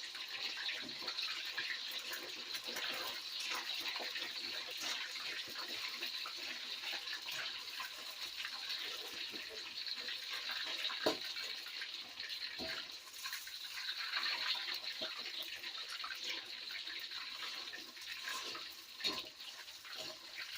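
Marinated chicken slices sizzling and crackling steadily in a hot wok, with a few sharp clicks of a utensil.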